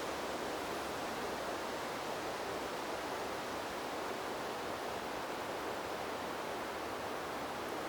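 Wind blowing through a bamboo grove: a steady, even rush with no gusts or breaks.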